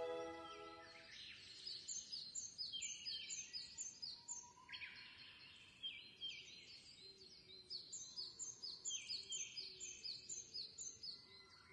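Birds chirping in quick runs of short, high notes, several a second, with pauses between the runs and one longer falling call about five seconds in. Soft background music fades out in the first second.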